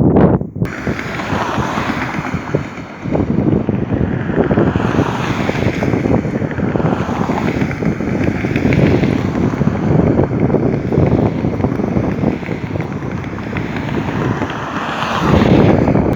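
Wind blowing across the microphone: a loud, steady, rumbling rush that swells near the end.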